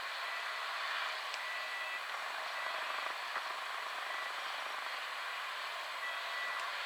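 Steady outdoor airport ambience: an even hiss with no distinct events, and faint short high tones now and then.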